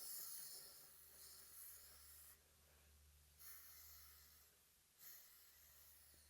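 Near silence, with three faint soft hisses of uneven length.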